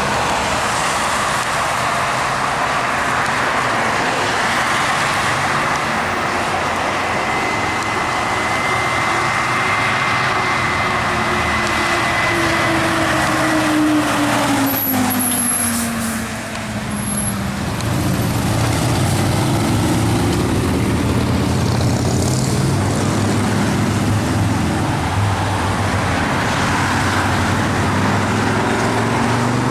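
Fire engine on an emergency response, its engine running loudly as it drives; the engine note falls in pitch through the middle and climbs again near the end. A short sharp sound comes about halfway through.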